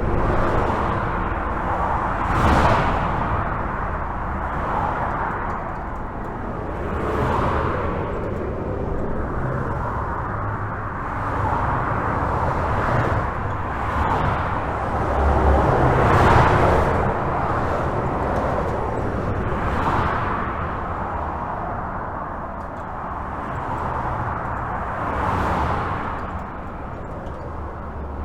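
Highway traffic heard from under a bridge: a continuous rush of tyres and engines with a low rumble underneath. Single vehicles swell past every few seconds.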